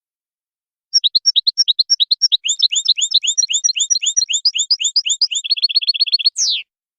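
European goldfinch singing a wadani-style song phrase: a quick run of high chirping notes, about eight a second, speeding into a faster trill and ending on one downward-sweeping note.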